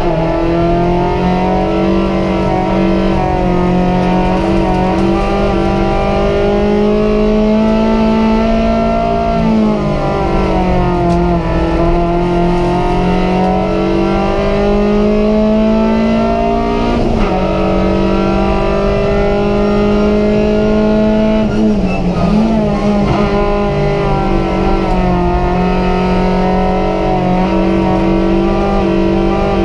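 Opel Corsa's Z14XEP 1.4-litre four-cylinder petrol engine, heard from inside the cabin, running hard at high revs under racing load. Its pitch holds fairly steady but dips briefly and climbs back about a third of the way in, just past halfway, and about three-quarters through.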